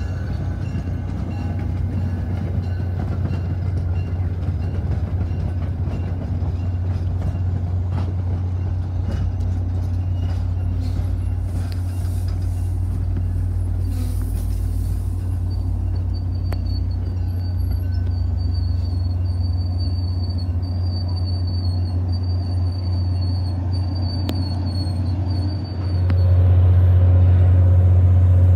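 Train rolling past: a steady low rumble with scattered sharp clicks of wheels over rail joints and a thin high wheel squeal for a while. The rumble steps up louder near the end.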